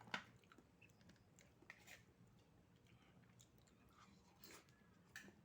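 Faint eating sounds: quiet chewing with a few soft clicks, the sharpest just after the start.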